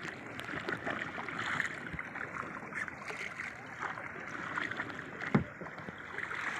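Kayak paddling: paddle strokes in the water with a steady splashing and trickling of water, and one sharp knock a little after five seconds in.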